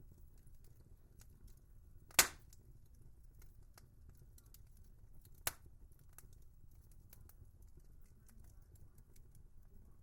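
Wood fire crackling, with a low steady rumble and many small faint ticks. Two sharp pops of burning wood stand out: a loud one about two seconds in and a smaller one about five seconds in.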